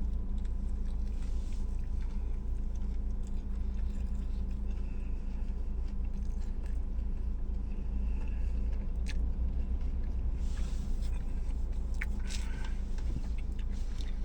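A person biting into and chewing a toasted sub sandwich, with a few small crunches, over a steady low hum.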